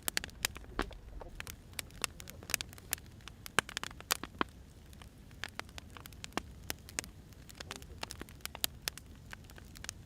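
Wood fire crackling: irregular sharp pops and snaps from burning firewood over a low steady rumble, with a few louder pops in the first half.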